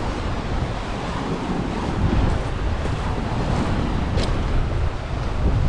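Wind buffeting the microphone in a steady low rumble, over the rushing wash of the sea on the shore.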